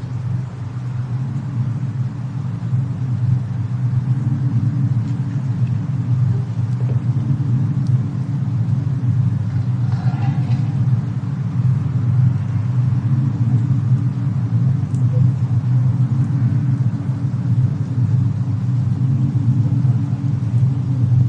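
Steady deep rumble of a snowstorm-and-fireplace ambience recording, with a few faint crackles scattered through it.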